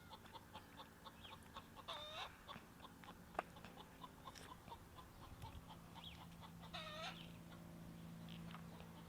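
Chickens clucking faintly, many short clucks scattered throughout, with two longer wavering calls about two seconds and seven seconds in. A faint steady low hum comes in during the second half.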